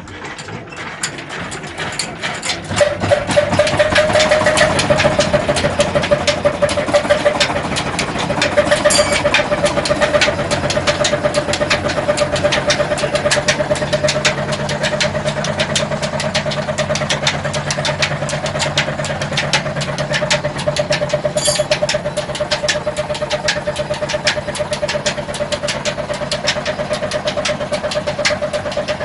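Petter diesel engine just started, picking up speed over the first few seconds, then running steadily with a rapid knocking beat and a steady whine.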